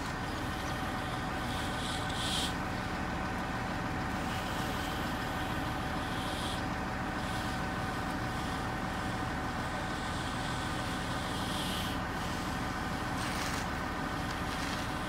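Heavy diesel truck engine running steadily on a concrete job site, from the concrete pump or a concrete truck. Short, higher rustling noises come and go every few seconds over the engine.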